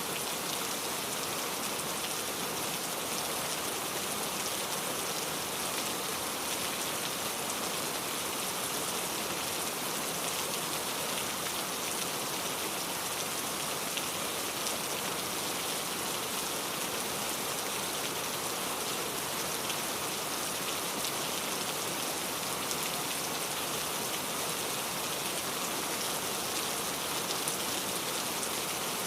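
Steady rain falling, an even hiss of many close drops pattering on a surface.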